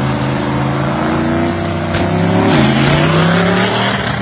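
A loud vehicle engine revving. Its pitch climbs, drops sharply about two and a half seconds in, climbs again, then eases off near the end.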